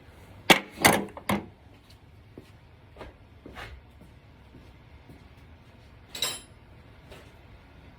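Knocks and clatters from objects being handled: three sharp knocks in quick succession about half a second in, lighter knocks a few seconds later, and a brighter clink with a short ring about six seconds in.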